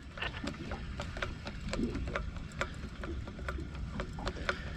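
Fishing reel clicking as line is wound in on a bite. The clicks are sharp and irregular, several a second, over a low rumble.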